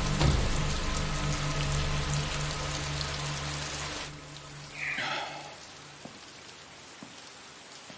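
Steady rain hiss under a sustained low musical drone, which cuts off about four seconds in. After that the rain goes on more quietly, with a short soft sound about a second later.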